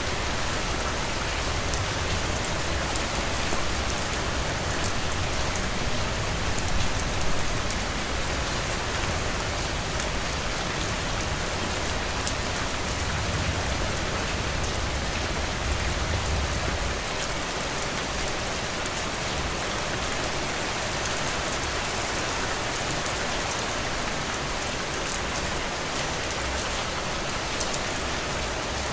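Heavy rain falling steadily on a roof, a dense even hiss with fine drop ticks. A low rumble underneath fades out a little over halfway through.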